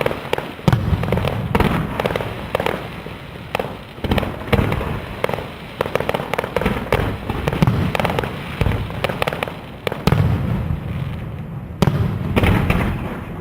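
Fireworks display: a dense, rapid run of shell bursts, bangs and crackling one after another, with a low rumble under them.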